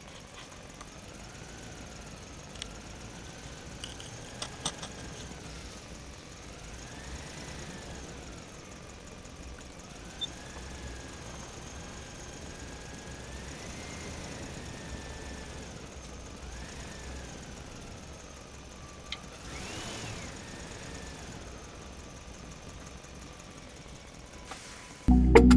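Small electric motor of a homemade mini tractor model running with a faint whine that slowly rises and falls in pitch, with a few light clicks.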